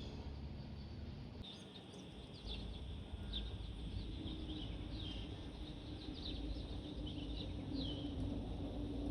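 Small birds chirping, with many short, quick, falling chirps. They sound over a low rumble that grows stronger a couple of seconds in and picks up a steady hum about halfway through.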